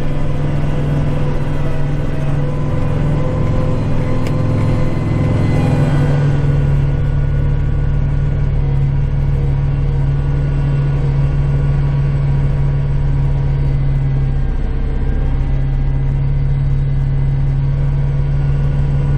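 Kubota tractor's diesel engine running steadily under load while snow plowing, its pitch shifting about six seconds in and again near the end.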